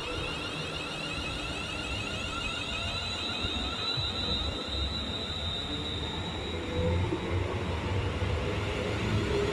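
A London Northwestern Railway electric multiple unit passing close by, with the steady rumble of wheels on rail and a high electric whine from its traction equipment that fades over the first few seconds.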